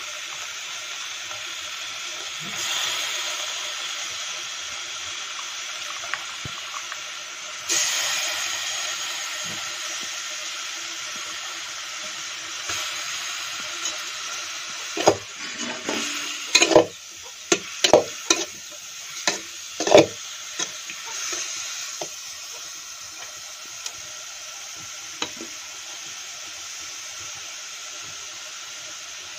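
Wood mushrooms sizzling in oil in a kadai, the sizzle swelling twice in the first several seconds. Midway there is a run of sharp clacks and scrapes as the mushrooms are stirred against the pan.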